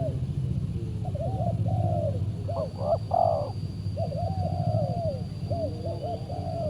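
Spotted doves cooing: several overlapping series of short arching coo notes, with a louder, higher note about three seconds in, over a steady low rumble.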